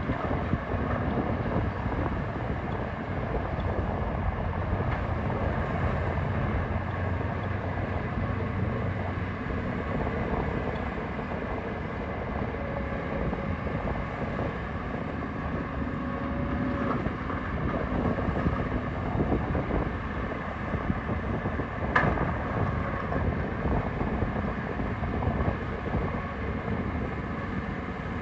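Heavy construction machinery's diesel engines running steadily as the machines work dirt, with a continuous low rumble and one sharp knock about three-quarters of the way through.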